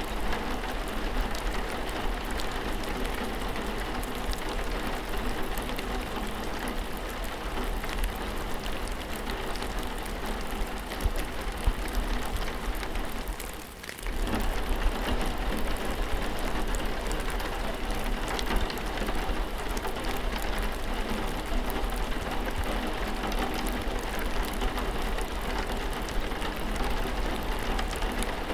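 Steady rain with a dense patter of individual drops. The sound dips briefly about halfway through, then carries on as before.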